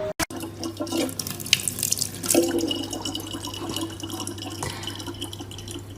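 Water running from a tap into a sink, with small irregular splashes.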